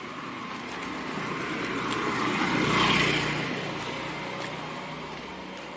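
A road vehicle passing close by: engine and road noise that swells to a peak about three seconds in and then fades away.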